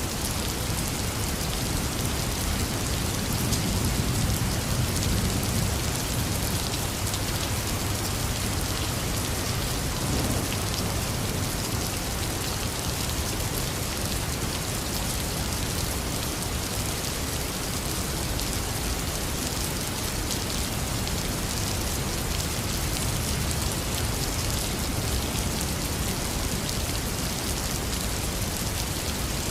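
Heavy rain pouring steadily onto surfaces, a dense even hiss of drops. A low rumble of thunder swells briefly a few seconds in.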